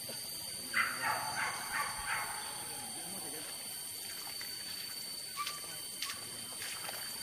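Animal squeals: a quick run of about five high calls about a second in, dying away by about two seconds.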